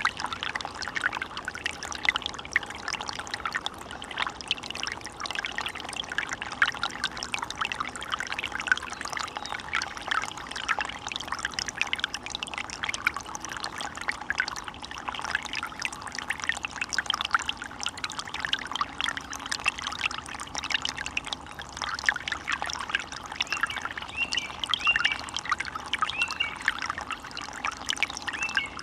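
Forest stream babbling and splashing steadily, a continuous bubbling wash of running water.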